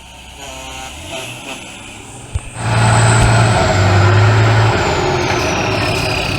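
Truck engine working hard: the sound builds, then is loud from about two and a half seconds in, with a high whine that falls slowly in pitch.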